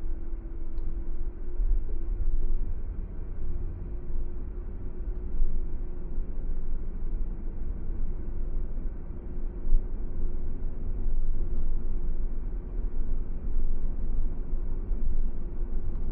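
Car driving along a road: a steady low rumble of road and engine noise with a constant hum.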